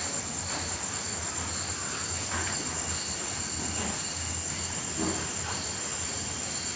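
Crickets chirping: one continuous high trill, with a second, lower chirp pulsing roughly once a second over a low hum.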